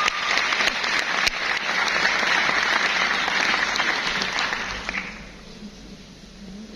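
Audience applauding, then dying away about five seconds in.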